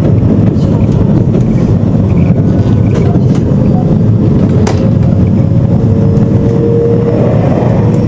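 Steady rumble of a train running at speed, heard from inside the passenger car, with a faint whine partway through.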